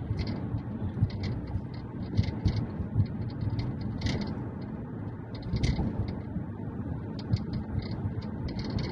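Low road rumble inside a moving 2019 Mazda 3 sedan, with many light, irregular rattles and ticks from the rear of the car, the kind that show up on rough roads.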